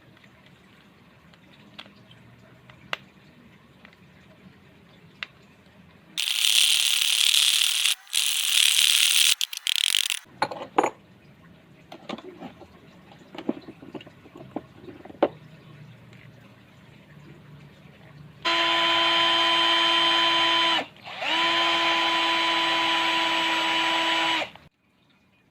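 Electric drill driving a homemade wood lathe, its motor running with a steady whine for about six seconds, cutting out briefly partway through and starting again. Earlier comes about four seconds of loud hissing in bursts, with scattered clicks and knocks of handling before and after.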